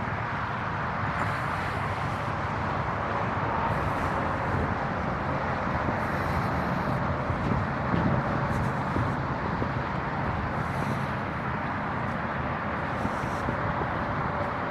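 Steady hum of interstate highway traffic, an even wash of tyre and engine noise with no single vehicle standing out.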